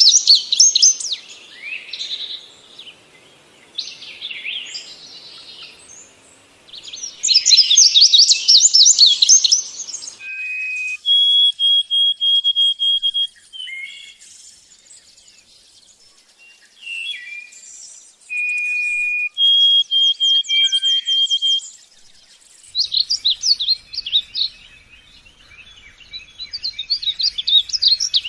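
Lovebird calling in bursts of fast, shrill chattering trills, with a few steady held whistle notes in the middle stretch.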